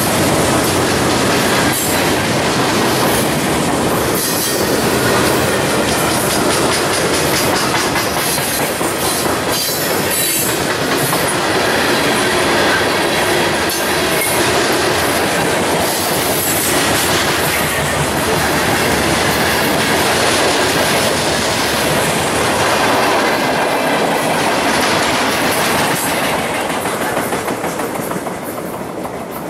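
Freight cars rolling past on the rails, the wheels clacking steadily over the rail joints. The sound fades away near the end as the last cars go by.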